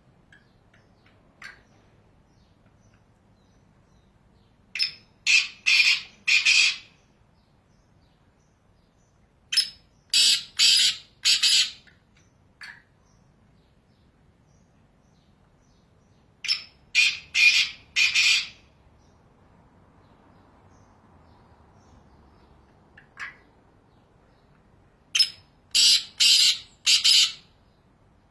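Black francolin calling four times, each call a short note followed by three or four harsh, grating notes, repeated every several seconds.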